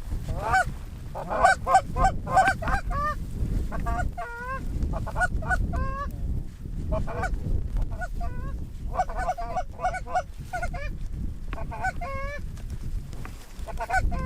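Canada geese honking and clucking, many short calls in quick clusters throughout, over heavy wind noise on the microphone.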